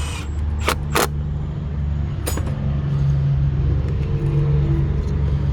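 Buick LaCrosse V6 engine running steadily at idle, just after two new ignition coils were fitted to cure a misfire. A few sharp clicks sound in the first half.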